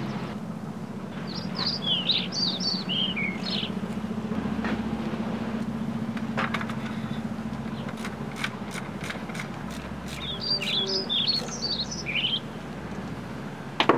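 A small songbird sings two short phrases of quick, high chirping notes that step down in pitch, with a steady low hum underneath and a few sharp clicks in between.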